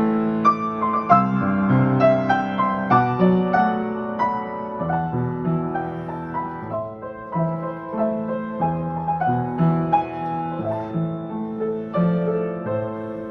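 Solo piano playing a slow, gentle melody over held bass notes.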